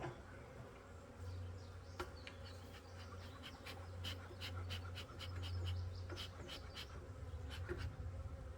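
Honey bees buzzing steadily around an opened swarm box, a colony that is getting testy as its combs are handled. From about two seconds in, a quick run of light clicks and taps sounds over the buzz.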